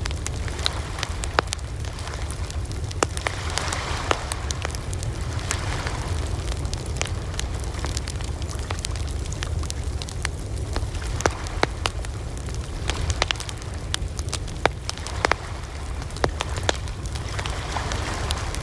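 Campfire crackling: burning wood gives frequent, irregular sharp pops and snaps over a steady low rumble.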